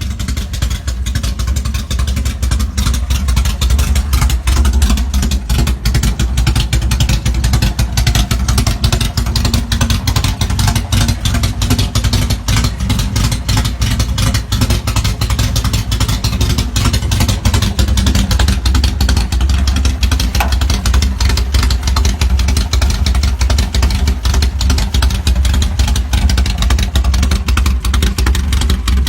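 Stroked air-cooled VW flat-four engine running steadily through an unmuffled CSP Python exhaust, a loud, rapid exhaust beat.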